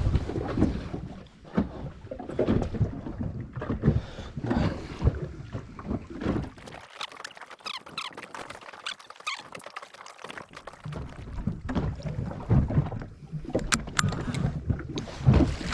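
Small boat rocking on the sea, water slapping against the hull with irregular knocks and clicks. It goes quieter for a few seconds in the middle.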